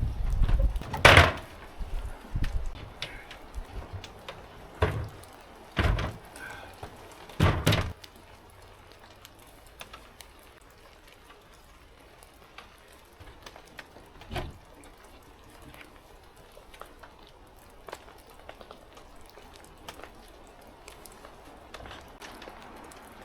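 A series of hard wooden knocks and thuds during the first several seconds, then mostly quiet with a few faint scattered clicks and one small knock.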